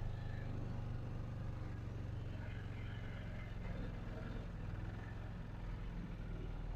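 A blown car engine running steadily under light load as the vehicle creeps along, a low even rumble; the engine is running hot.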